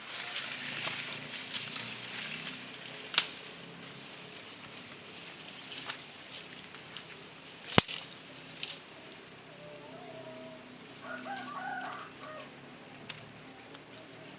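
Two sharp clicks, about three and about eight seconds in, over a faint steady outdoor background; from about ten seconds in a rooster crows faintly.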